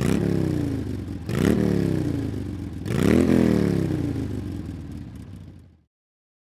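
Motorcycle engine, three times rising sharply in pitch and loudness and then falling away slowly, about a second and a half apart; the sound cuts off abruptly near the end.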